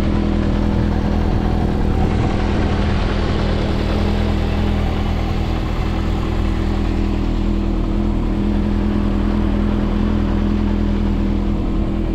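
Yamaha XJR400's air-cooled inline-four idling steadily through an SP Tadao Super Combat full exhaust system, running evenly with no abnormal noises.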